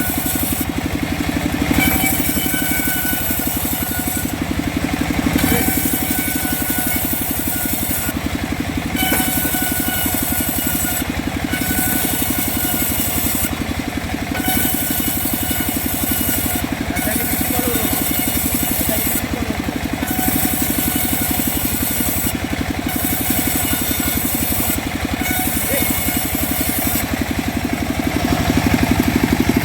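Engine of a homemade saw machine running steadily while mahogany is sawn, with a high hiss that cuts out briefly every few seconds.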